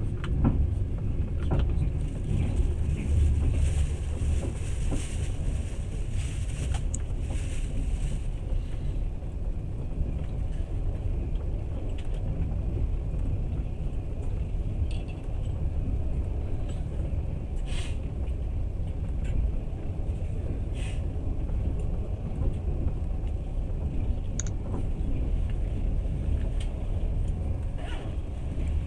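Passenger train running, heard from inside the carriage: a steady low rumble with a few sharp clicks and knocks at uneven intervals.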